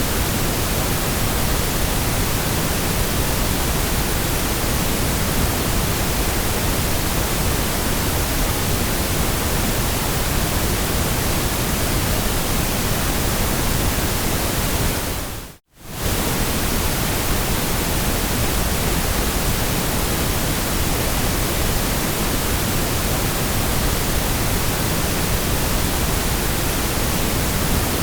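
Steady synthetic white noise, an even hiss across the whole range. About halfway through it drops out briefly to near silence and comes straight back.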